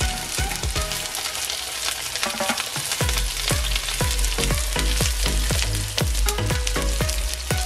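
Beef chapli kababs sizzling in shallow oil in a frying pan over medium heat, with a slotted spatula turning one over at the start. Background music with a steady beat comes in about three seconds in.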